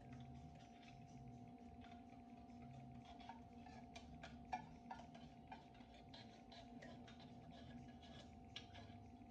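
Near silence: a faint steady hum with scattered light clicks and taps.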